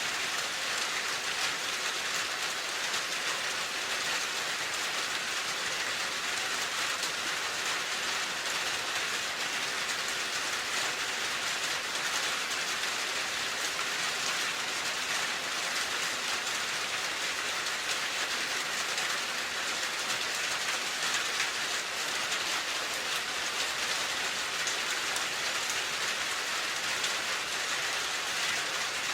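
Steady rain falling, an even patter of many drops hitting a surface.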